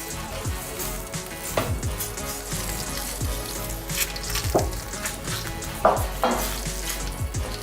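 Sizzling hiss from the hot tray of freshly hot-smoked mackerel as it comes out of the oven, with a few sharp metallic clinks. Background music with a steady beat plays underneath.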